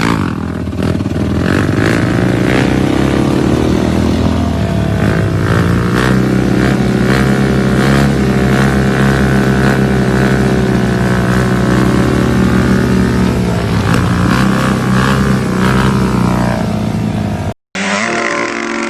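Motorcycle engine running hard, its pitch rising and falling as it revs up and down through the gears. There is a brief dropout near the end, then another engine picks up.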